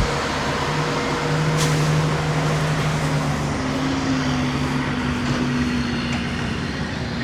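Heavy diesel semi truck engine running nearby, a steady low engine note that rises slightly in pitch partway through.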